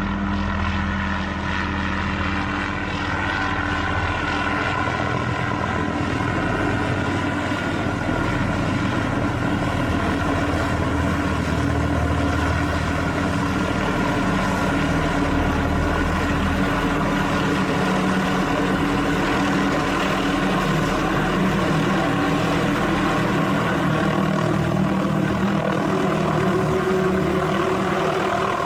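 MD 500 light helicopter running steadily close by: the turbine engine and rotor give a constant loud hum with several steady held tones.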